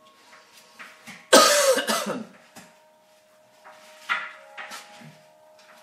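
A person coughs hard about a second and a half in, a short rough burst, with smaller sounds near the four-second mark.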